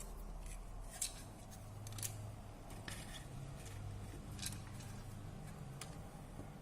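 Scattered short clicks, three of them sharper and louder, over a faint low hum.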